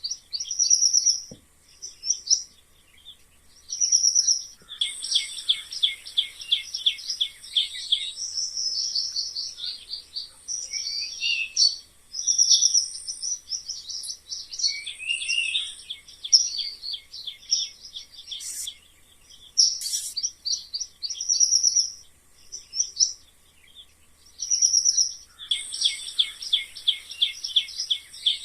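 Mice squeaking: short high-pitched squeaks repeating in bunches, with rapid chattering runs of squeaks about five seconds in and again near the end.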